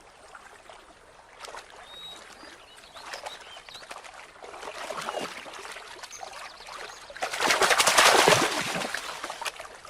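Stream water trickling, with a few faint bird chirps, then a loud burst of splashing for about two seconds near the end as a river otter lunges at a trout.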